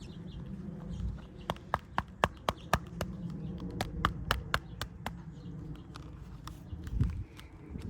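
Sharp taps on a hard plastic motorcycle helmet as it is handled: two runs of even taps at about four a second, then a single dull thump near the end.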